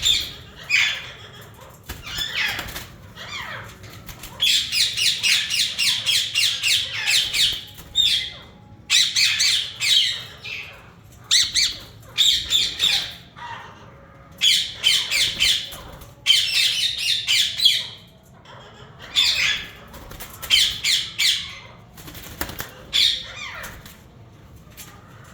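Yellow Indian ringneck parakeets squawking in bouts of rapid, harsh, high-pitched calls, each bout lasting a second or three, with short pauses between.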